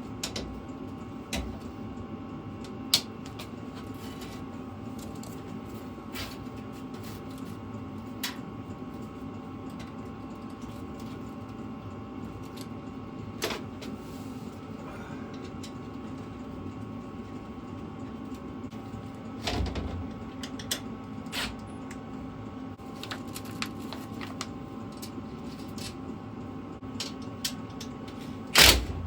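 Scattered sharp clicks and taps of metal parts and tools being handled over a steady low hum, with a quick run of loud knocks near the end.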